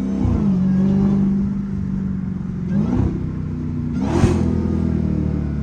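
Straight-piped Dodge Challenger Hellcat's supercharged V8 running steadily, with two short rev blips about three and four seconds in. The second blip carries a brief sharp burst of noise.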